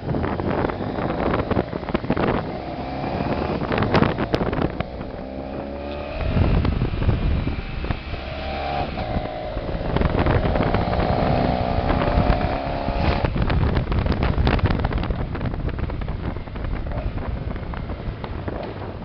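Motorcycle engine running under way, its pitch rising and falling several times, with wind buffeting the microphone.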